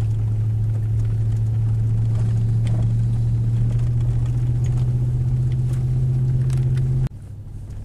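Steady low drone of a car's engine and tyres heard from inside the cabin while driving, its hum edging slightly higher in pitch. About seven seconds in the sound drops away suddenly to a much quieter level.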